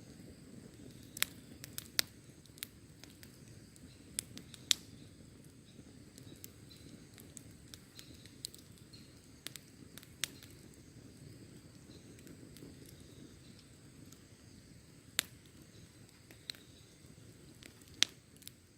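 Wood campfire crackling: sharp pops at irregular intervals, a few loud ones among many softer ones, over a low, steady rush of the burning fire.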